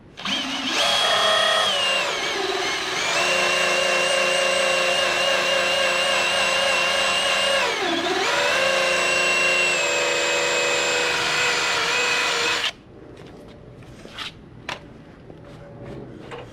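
Electric drill spinning a rubber decal-eraser wheel against a truck's paint to strip old adhesive residue, running with a steady motor whine. About eight seconds in the pitch dips and recovers as the wheel bogs under pressure. The drill stops suddenly near the end, followed by a few light clicks.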